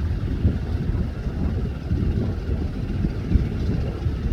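Fast passenger boat's engines running as a low rumble, with wind buffeting the microphone.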